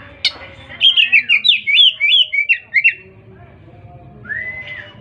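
Oriental magpie-robin (kacer) singing: a fast run of loud, sweeping whistled notes for about two seconds, then a single slurred whistle near the end.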